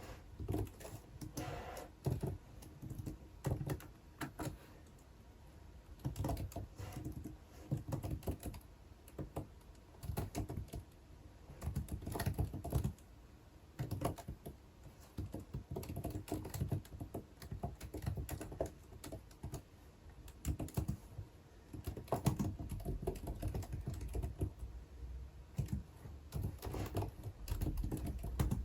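Typing on a computer keyboard: rapid key clicks in irregular bursts with short pauses between them.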